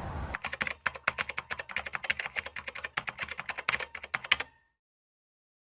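Rapid, uneven clicking like keyboard typing, lasting about four seconds before it cuts off suddenly into silence.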